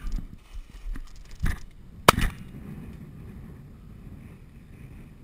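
A single loud shotgun shot about two seconds in, fired at a flushed pheasant, preceded by a few knocks and rustles of movement through the cover.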